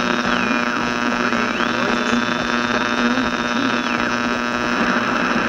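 Old radio noise: steady mains hum and static hiss. Over it, a high whistling tone holds, slides down in pitch, climbs back up, then slides down again. Near the end the hiss grows brighter.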